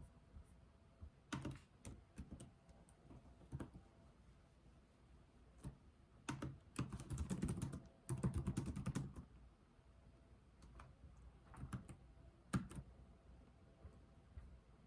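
Computer keyboard typing, slow and deliberate: scattered single keystrokes, then a quicker run of keys for a couple of seconds midway, then a few more taps.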